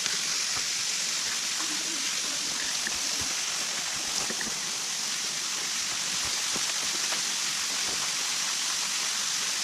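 Steady, even rushing of water outdoors, with faint voices in the background.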